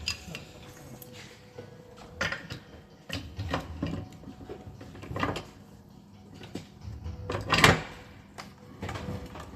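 Gearbox parts being assembled: a series of separate metal knocks and clunks as the differential and bearings are worked into the gearbox housing, the loudest a little over halfway through, over a faint steady hum.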